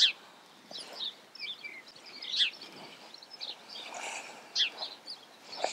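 Small birds chirping: a scatter of short, high calls that slide downward, the loudest right at the start.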